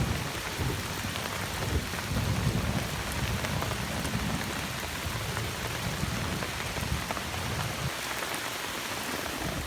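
Steady rain falling, with a low rumble of rolling thunder underneath that dies away near the end.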